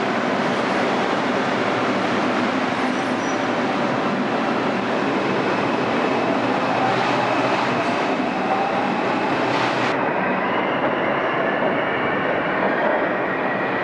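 Bombardier R142 subway train rumbling along the rails, its traction motors' whine rising steadily in pitch from about six seconds in as it accelerates out of the station.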